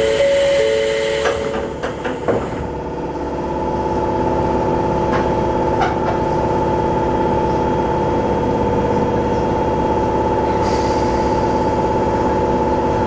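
Electric commuter train doors closing: a two-tone door chime over a hiss of air, then a few clunks. After that the train pulls away with a steady motor hum and rail noise, a few clicks, and a brief hiss about eleven seconds in.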